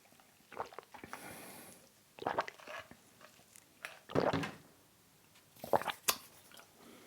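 Close-miked chewing and biting of thin-crust seaweed pizza: irregular crunches and mouth sounds every second or two, the loudest a little past the middle.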